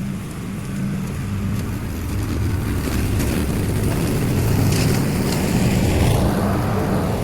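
Lawn mower engine running steadily under load while cutting tall, overgrown grass on a second, lower pass. It grows louder toward the middle and eases a little near the end.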